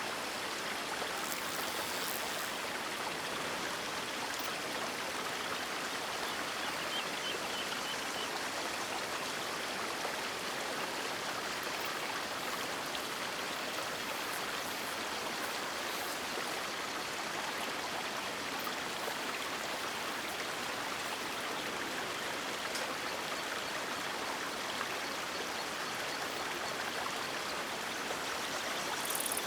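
River water rushing steadily, an even hiss of flowing water, with a few faint sharper splashes about a second in and near the end.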